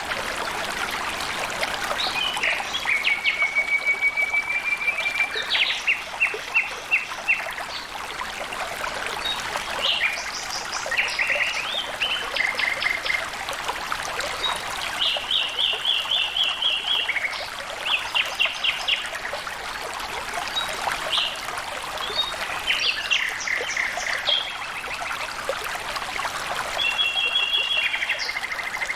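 Flowing water trickling steadily, with a bird singing short phrases of fast repeated notes every few seconds over it.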